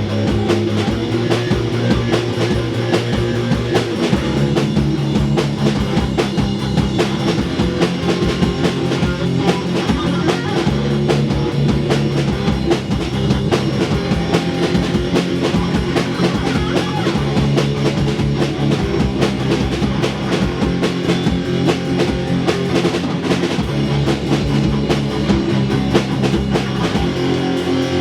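Rock band playing live: guitar over a steadily beating drum kit, with the chord changing about four seconds in.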